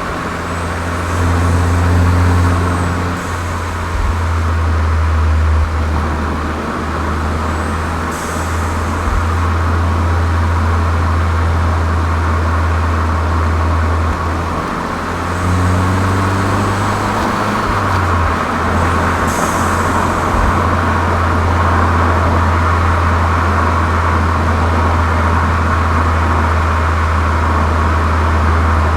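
Volkswagen Golf 7 GTI's turbocharged 2.0-litre four-cylinder running with a steady low drone through a Cox aftermarket muffler, with a K&N intake and Eurodyne stage 1.5 tune. The drone dips briefly several times, and faint short high whistles come and go.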